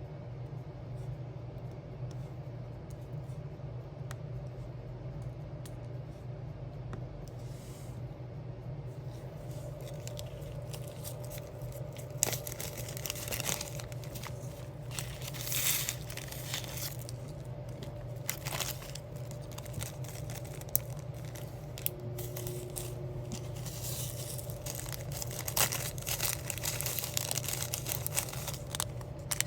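Plastic-and-paper diamond-art sticker sheets being handled, with crinkling, scraping and tearing in irregular bursts and small clicks over a steady low hum. The handling sounds pick up about a third of the way in and get busier near the end.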